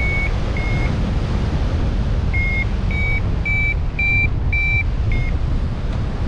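A run of short, high, evenly spaced beeping notes, about two a second, their pitch drifting slightly up and down from note to note, pausing for about a second and a half in the middle. Under them is a steady low rumble.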